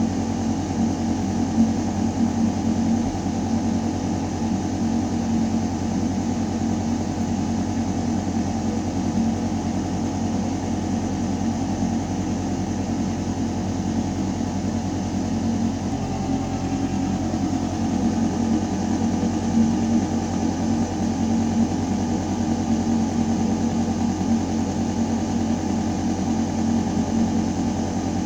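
Building ventilation system running in a shaft: a steady, deep mechanical hum of air moving through metal ducting, with a slight shift in tone a little past halfway.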